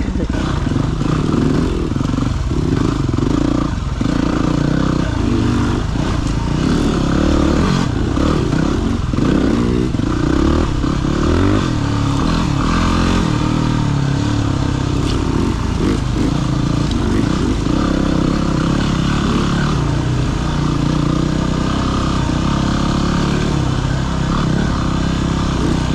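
Single-cylinder dirt bike engine running at ride, its pitch rising and falling as the throttle is opened and closed.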